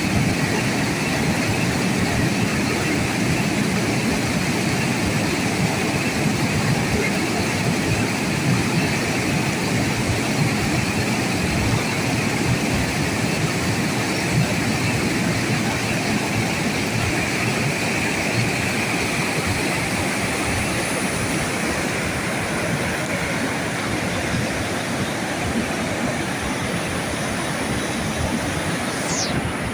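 A train rolling across a steel trestle: a steady rumble and rail noise from the passing cars that eases off slightly toward the end. Near the end there is a short high falling squeal.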